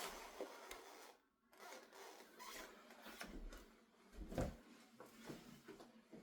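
Faint rustling of clothing fabric being handled, with small clicks and a soft thump about four seconds in.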